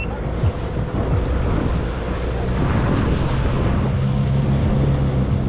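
Jet ski engine running steadily over the rush of water and spray, with wind buffeting the microphone.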